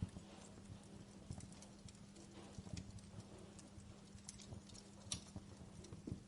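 Wood fire in a fireplace crackling: faint, irregular pops and snaps over a low steady hum.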